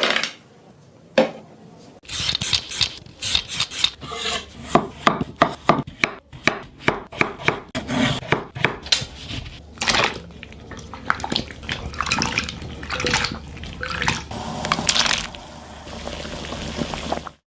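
Knife cutting potatoes on a wooden cutting board: a fast, regular run of sharp knocks, then slower, irregular cuts with some scraping.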